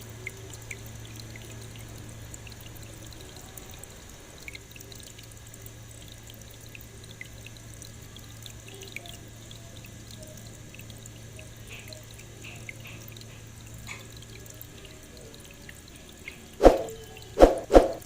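Small aquarium waterfall trickling and dripping over a cement cliff decoration, with the steady low hum of its water pump. Three loud, brief sounds cut in near the end.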